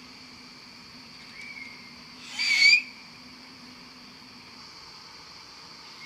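A short whistle-like call that rises in pitch at its end, loudest about two and a half seconds in, with a fainter one a second earlier, over a steady high hum.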